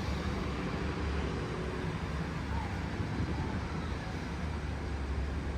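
A road vehicle's engine running steadily with a low, even hum, amid street traffic.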